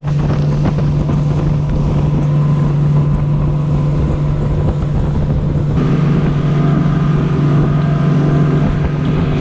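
Motorboat engine running steadily at speed, with wind noise on the microphone. Its tone shifts slightly about six seconds in.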